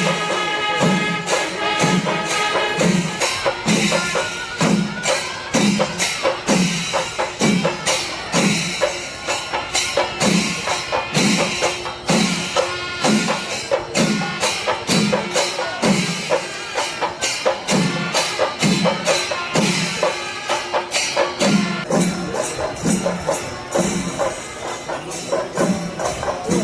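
Kerala temple percussion ensemble playing: a steady deep drum beat about every two thirds of a second under dense, continuous clashing of small hand cymbals, with held horn notes near the start.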